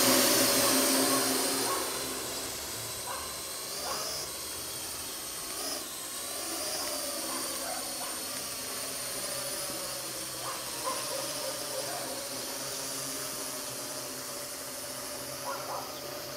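Parrot AR.Drone 2.0 quadcopter's four electric rotors whirring in flight, a steady buzzing hum with a high hiss. It is loud for the first couple of seconds, then settles quieter.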